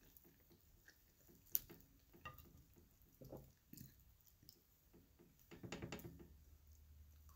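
Faint eating sounds: chewing chicken wing, with small wet clicks and smacks. There is a sharp click about a second and a half in, and a louder patch of chewing near the end.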